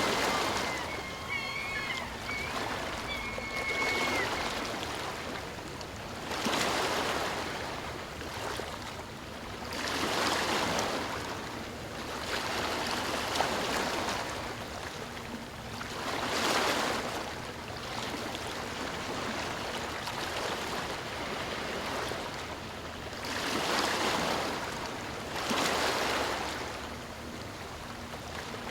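Sea waves breaking and washing in, the surf swelling and fading every few seconds. In the first few seconds there are a few short, high whistling calls.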